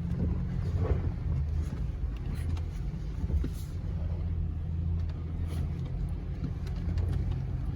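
3.6 L Pentastar V6 of a 2020 Jeep Gladiator Rubicon running steadily at low revs, a low even drone, with a few faint ticks and knocks over it.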